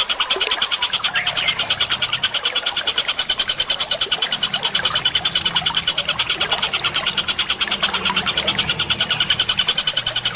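Bird-training (masteran) recording of songbirds: a fast, evenly paced run of sharp chirps, about seven or eight a second, with a low hum underneath.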